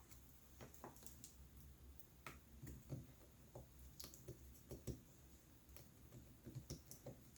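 Faint, scattered small clicks and taps from hands working on the open laptop's internals, over near silence.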